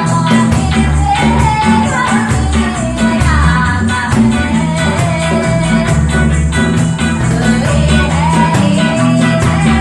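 Live band music: a song with a gliding lead vocal over heavy bass and a steady drum beat.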